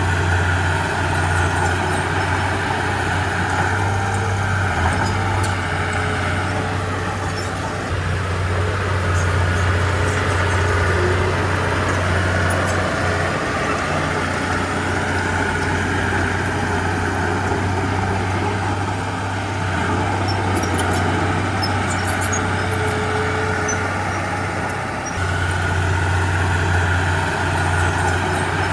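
Komatsu D31P crawler bulldozer's diesel engine running steadily under work, easing off briefly a few times, with a higher steady whine above it and a few faint clinks about two-thirds of the way in.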